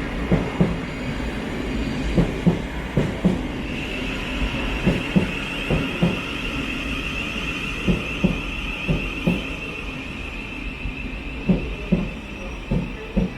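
A Thameslink Class 700 electric multiple unit rolls into the platform, its wheels giving repeated paired clunks over the rail joints above a steady rumble. A steady high whine joins in about four seconds in.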